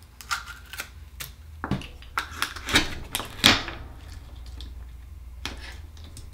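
Akoya oyster shells clicking and clattering as they are handled: a quick run of sharp clicks and short scrapes through the first four seconds, a few more near the end, over a low steady hum.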